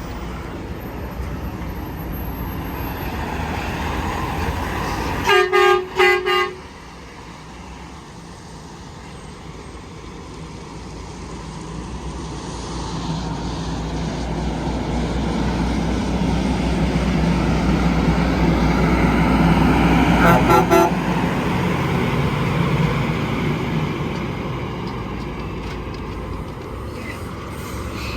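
Highway traffic noise with a horn giving three quick blasts about five seconds in. A heavy vehicle then swells past, with another short honk near its loudest, and fades away.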